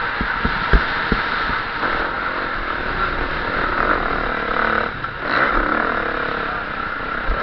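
KTM 350 SX-F single-cylinder four-stroke motocross engine running under riding load, heard through wind noise on the onboard camera. Several sharp knocks come in the first second. About five seconds in the engine briefly drops off, then revs back up.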